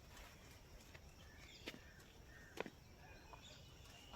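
Quiet outdoor near silence with faint scattered bird chirps and two soft knocks or steps about a second apart, around the middle.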